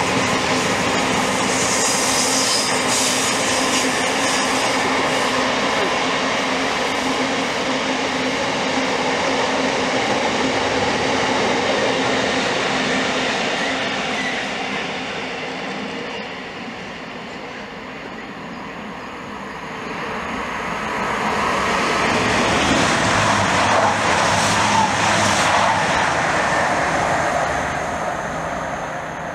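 Freight trains hauled by Class 66 diesel locomotives, with their two-stroke V12 engines, passing with long rakes of loaded box wagons: a steady rumble of wheels on rails. It dips around the middle, swells again as a Class 66 and its wagons pass close, then fades near the end.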